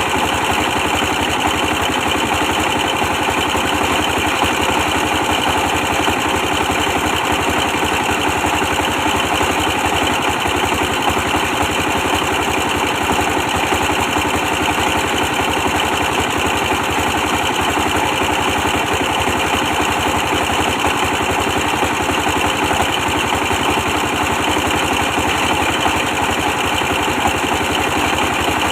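Old 24 hp diesel engine running steadily, powering a brick press machine during production; a continuous, even engine beat that does not change.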